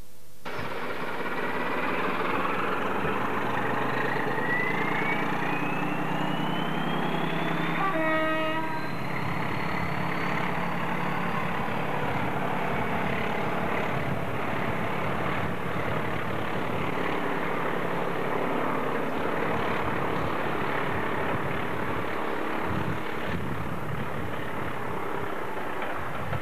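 A diesel-hauled train with tank wagons and passenger coaches crossing a bridge: steady engine and wheel rumble, with one short horn toot about eight seconds in.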